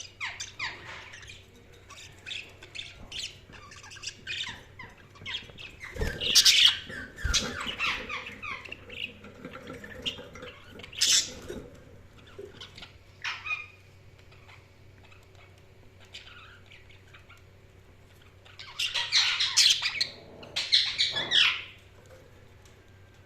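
A group of budgies chirping and squawking with short, rapid calls. There are louder flurries about six seconds in, again around eleven seconds, and a longer one near the end, with a quieter spell between. A couple of soft thumps come about six and seven seconds in.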